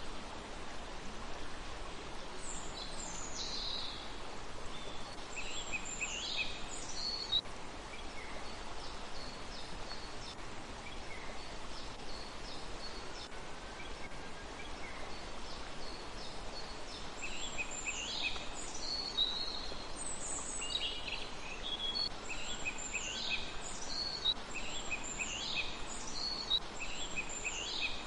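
Small birds chirping: quick, high, mostly falling notes in bursts, thick at the start and again through the second half, sparse in the middle, over a steady outdoor background hiss.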